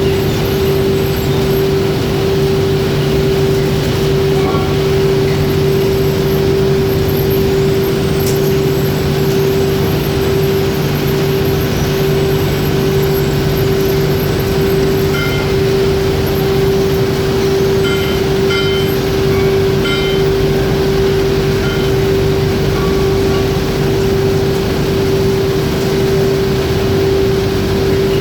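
Foundry machinery running with a constant loud hum and a steady mid-pitched tone, unchanging throughout, as iron is melted and cast for stove parts.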